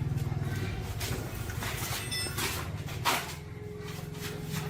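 A small engine running steadily with a low, fast-pulsing hum, with a few clicks and knocks over it.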